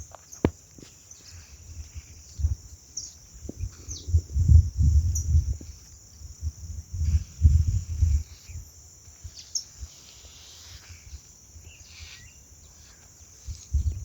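A steady high chirring of insects, with irregular low gusts of wind buffeting the microphone, strongest about four and seven seconds in.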